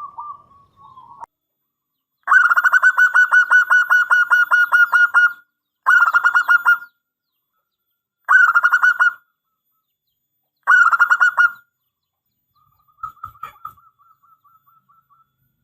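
Zebra dove (perkutut) singing: a long run of rapid staccato cooing notes lasting about three seconds, then three shorter bursts about two and a half seconds apart, and a fainter run near the end.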